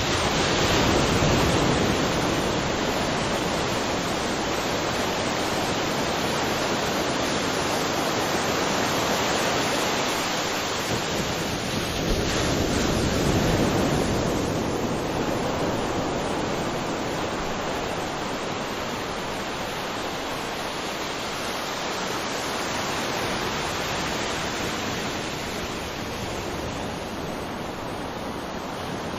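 Waterfall: a continuous rush of falling water that swells briefly about halfway through and eases a little toward the end.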